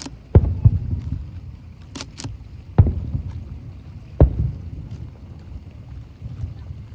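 Aerial firework shells bursting: sharp booms, two close together at the start and two more a second and a half apart, each trailing off in a low rumble, with a few fainter pops and crackles between.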